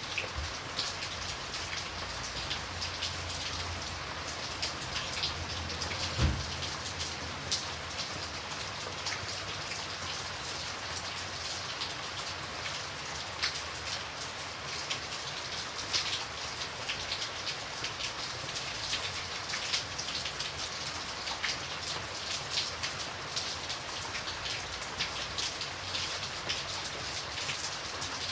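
Steady rain with many separate drops pattering on a surface. About six seconds in there is one louder, deeper thud.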